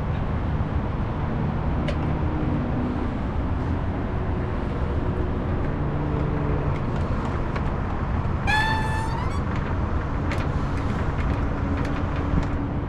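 Steady outdoor rumble of background machinery or traffic, with faint low hum and a few light clicks. About eight and a half seconds in, a short, rising, whistle-like tone sounds once.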